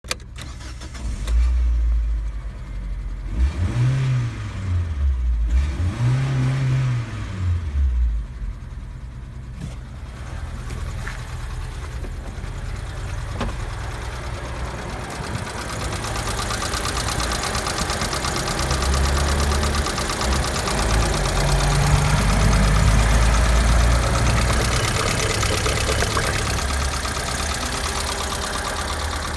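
Mitsubishi 4G93 1.8 GDI inline-four petrol engine running. It is revved up and back down twice a few seconds in, then settles to a steady idle, with louder stretches later on.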